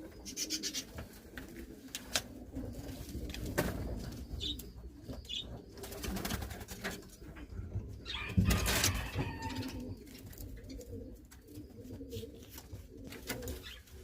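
Domestic pigeons cooing over and over in a loft, with scattered clicks and knocks and a louder rustling knock about eight and a half seconds in.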